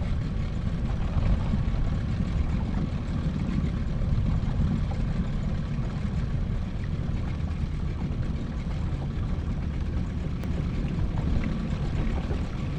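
Fishing boat's outboard motor running steadily, a continuous low rumble.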